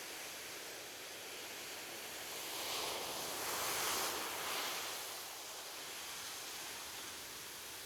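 Ocean surf: a steady wash of waves, with one wave swelling and breaking about halfway through, then falling back.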